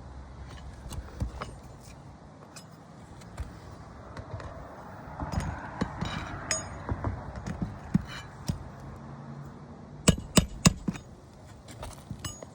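Hand work on an asphalt shingle roof: roofing tools and shingles being handled, with scattered clicks, a stretch of rustling and scraping about halfway, and a quick run of sharp knocks about ten seconds in.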